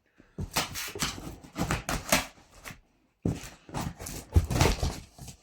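Cardboard box and packaging being opened and rummaged through: rustling and crackling with small knocks, in two spells with a short pause between them.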